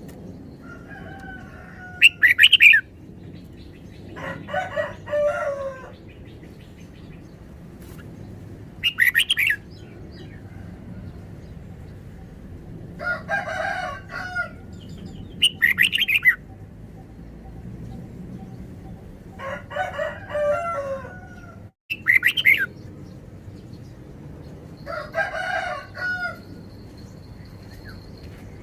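Red-whiskered bulbul singing short, bright song phrases again and again, a burst every two to four seconds.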